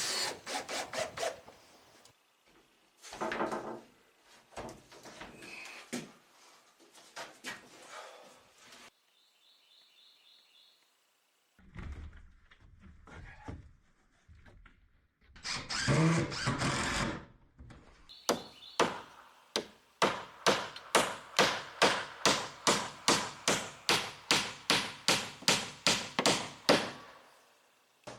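Woodworking and building sounds: a string of separate knocks and scraping passes on wood, then a fast, even run of sharp strokes, about three or four a second, for several seconds near the end.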